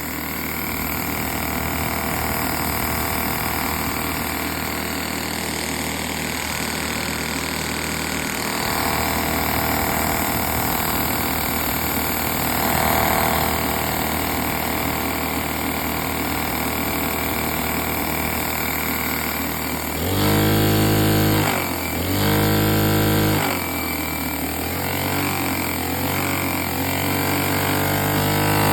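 Lego butterfly vacuum engine running steadily with a mechanical whir. About twenty seconds in, a louder hum starts and stops several times, its pitch sliding up and down.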